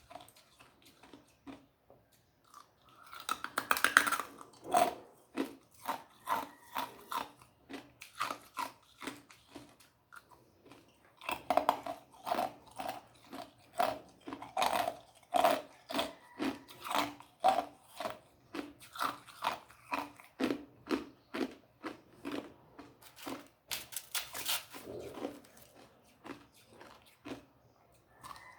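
A person biting and chewing ice, with a long run of sharp crunches, often about two a second, and a short lull about ten seconds in.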